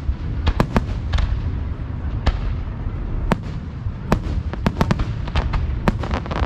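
Aerial fireworks bursting at close range: a dozen or more sharp bangs at irregular spacing, some in quick pairs, over a continuous low rumble.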